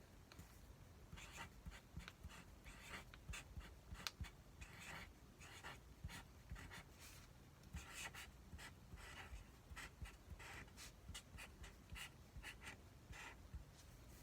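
Delivery food packaging being handled and opened: a faint, irregular run of plastic crinkling, scratching and small clicks.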